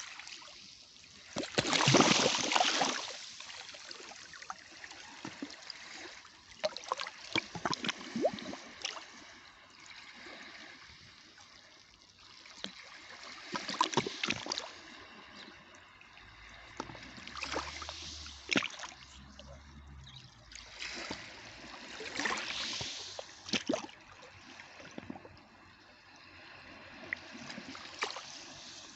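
Sea water washing and splashing at the shore in irregular surges, with trickling between them; the loudest surge comes about two seconds in, with others around the middle and about three-quarters through.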